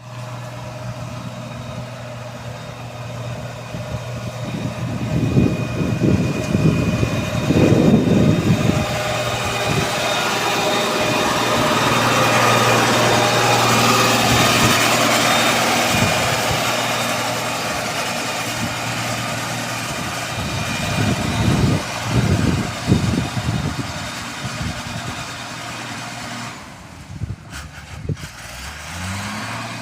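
Motor grader's diesel engine running steadily, with louder stretches of rumbling and a hissy swell in the middle. Near the end the engine note rises.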